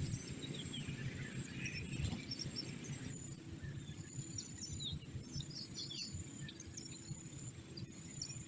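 Small birds chirping in short, quick notes scattered throughout, over a steady high-pitched whine and a constant low rumble.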